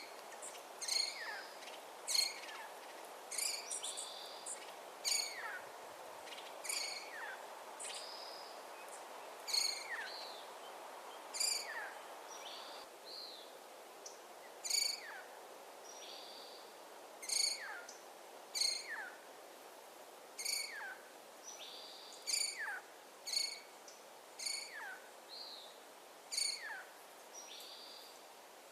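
A bird calling over and over, short sharp notes that drop steeply in pitch, about one a second, with a few shorter notes in between, over a steady background hiss.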